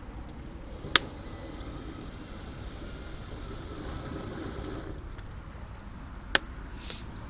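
Burning firewood cracks sharply twice, about a second in and again near the end, over a low steady background rumble.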